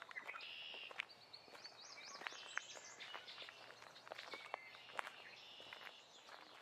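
Several songbirds singing, with a quick run of repeated high notes about two seconds in, over scattered crackling footsteps on the forest floor.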